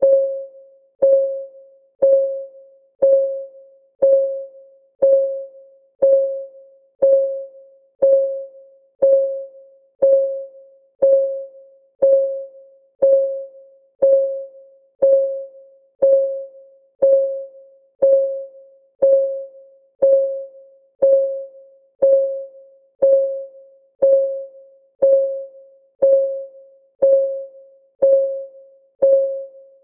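Clock-ticking sound of a countdown timer: one short, pitched tick each second, each fading away quickly, in an even steady rhythm.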